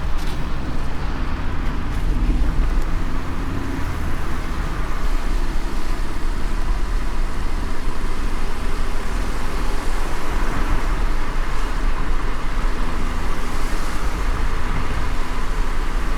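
Steady low rumble of a moving car: engine hum and road noise, with no changes or sudden sounds.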